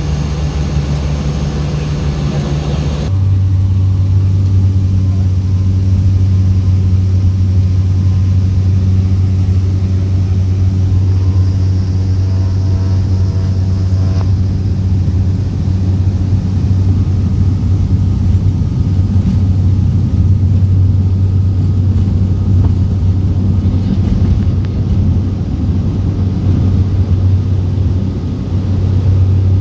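Turboprop airplane running at take-off power: a steady propeller drone with a high turbine whine, its pitch and level stepping up abruptly about three seconds in as power comes on for the take-off.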